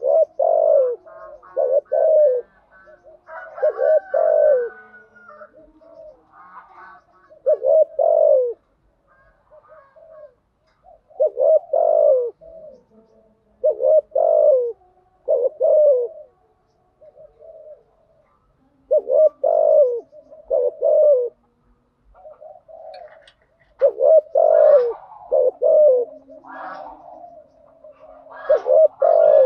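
Spotted dove cooing: short two- and three-note coo phrases repeated every two to four seconds. This is the kind of cooing (thúc gù and gáy gọi) played as a lure to get decoy doves singing.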